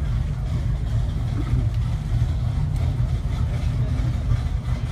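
Car engine idling steadily with a low, even pulsing.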